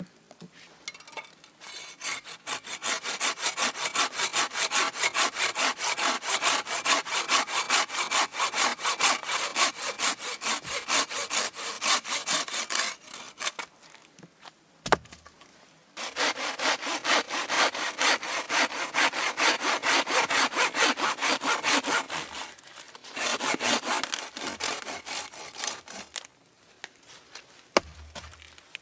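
Hand saw cutting wood with quick, even back-and-forth strokes, in three runs separated by short pauses, with a single sharp knock in the first pause.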